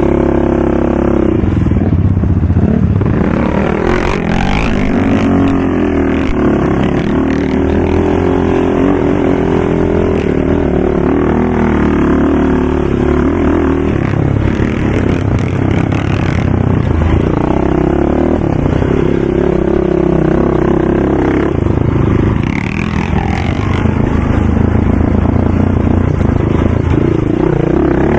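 Racing ATV engines running hard, the pitch rising and falling over and over with the throttle and gear changes, with a brief easing off about 22 seconds in.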